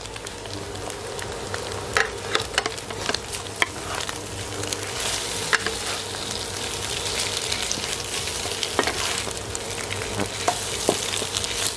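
Egg and shredded salted turnip sizzling in oil in a wok, with the scrape and knock of a wooden spatula turning them over now and then. The sizzle grows a little louder about halfway through.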